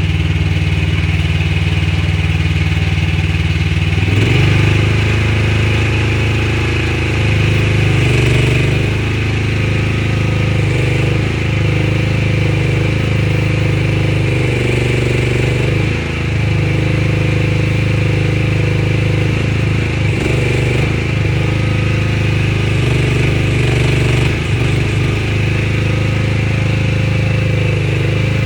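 Small engine of a Rippa Mule Trac 1-ton mini excavator running under hydraulic load while digging. It steps up about four seconds in, then wavers and dips again and again as the boom and bucket work.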